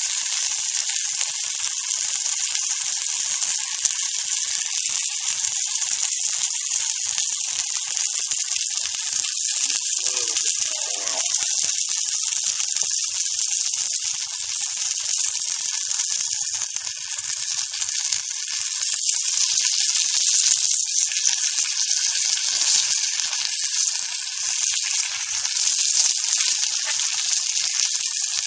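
Floured squirrel pieces frying in hot oil in a cast-iron skillet, a steady sizzle with crackling.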